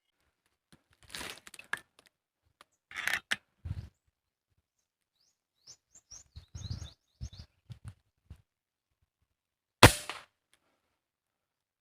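Rustling and handling noises, then a run of short, high, falling bird chirps in the middle. Near the end comes one loud, sharp crack with a brief ringing tail.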